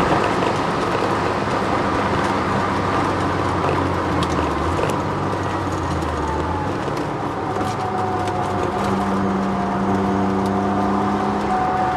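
Twin-turbo Ford Sierra XR4x4 V6 running at track speed, heard inside the cabin, with a steady whine from the drivetrain that the owner puts down to its solid differential mount. The whine drops slowly in pitch over the second half, and the deep engine note falls away about seven seconds in.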